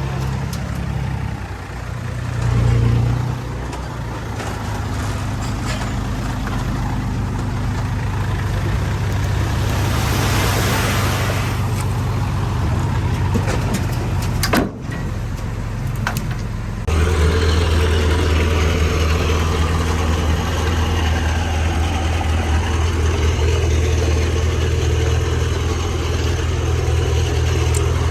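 Heavy diesel earthmoving machinery engine running steadily. About two thirds of the way in, the engine sound changes abruptly to a louder, steadier drone.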